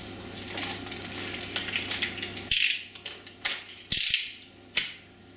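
Handling noises while unpacking a boxed appliance: rustling and clicking, with several short, sharp scrapes in the second half.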